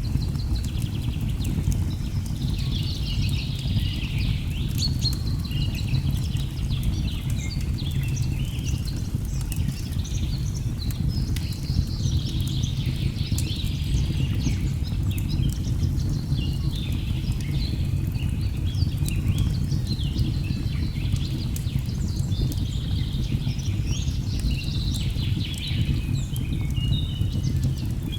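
Birds chirping and calling over a steady low rush of waterfall water, with scattered small crackles of a wood fire.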